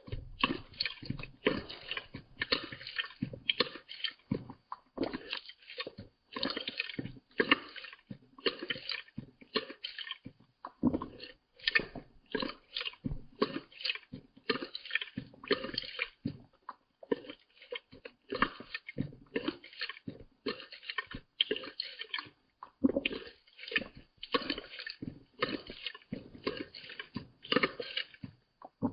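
Cat lapping water with its tongue: a steady run of short wet laps, about two a second.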